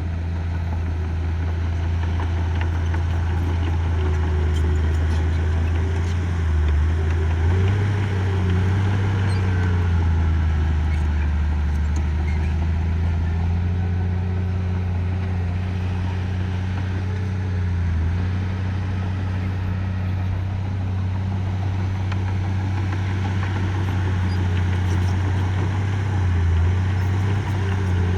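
Diesel engine of earth-moving machinery running steadily under load. Its pitch shifts up and down briefly about three times.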